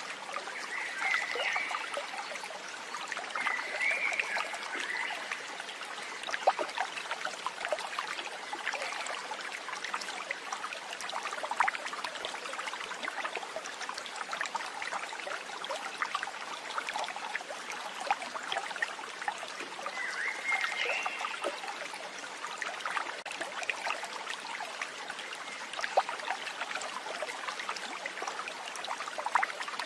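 Water trickling and babbling, like a small stream, with many small splashy ticks. A few brief chirping calls rise above it: one about a second in, one about four seconds in, and one about twenty seconds in.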